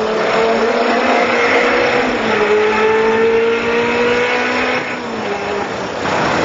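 Sports car engines accelerating hard, the engine note climbing steadily with a brief step about two seconds in. The note then drops off about five seconds in, leaving road and wind noise.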